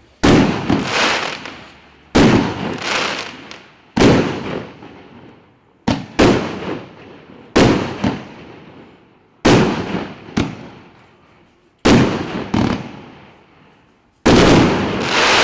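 Large firework battery (cake) firing shot after shot: a sharp bang about every two seconds, each fading out over a second or so, some followed by a smaller pop.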